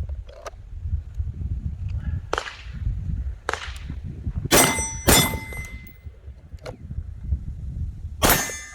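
Handgun shots at an outdoor range: five sharp reports spread over several seconds, the two close together in the middle and the one near the end loudest, each of those followed by a brief high ringing. A low rumble of wind on the microphone runs underneath.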